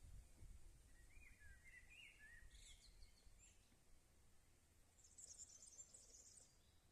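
Faint outdoor ambience with small birds chirping. A few short gliding chirps come about a second in, and a brief high twittering near the end, over a low rumble.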